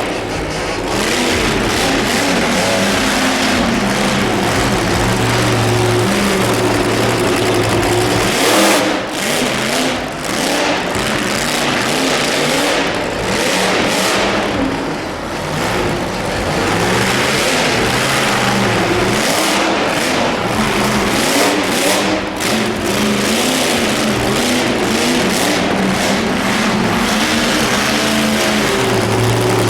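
Monster truck engine running hard, held at a steady pitch for a while and then revved up and down several times.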